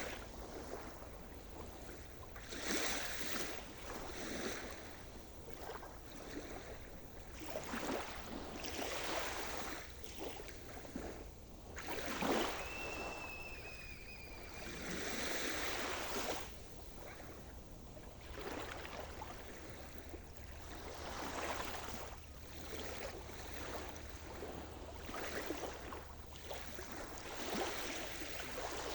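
Sea surf: waves washing in and breaking in irregular surges every few seconds, the biggest about halfway through. A short falling whistle sounds just after it.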